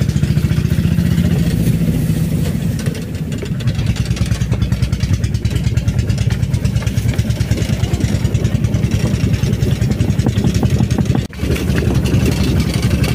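Small motorcycle engine of a motor lori rail cart running steadily under way, with a fast, even pulsing beat. The sound briefly drops out about eleven seconds in.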